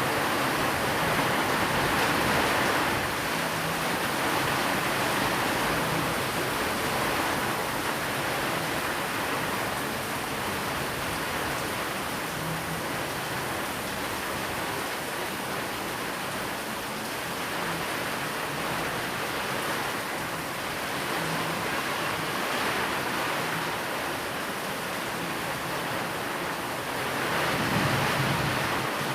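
Steady rain, an even dense hiss mixed with white noise, swelling a little near the end.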